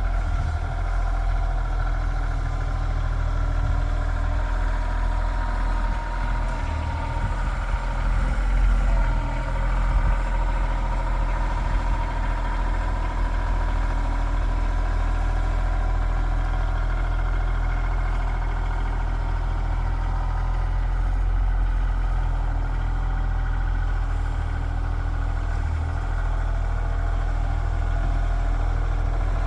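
Tractor engine running steadily at a fairly constant speed, with a deep low rumble.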